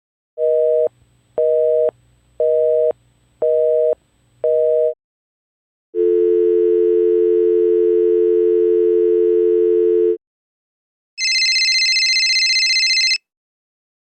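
Telephone signal tones as sound effects: a busy signal of five short two-tone beeps, then a steady dial tone for about four seconds, then a higher, shriller two-tone beep for about two seconds.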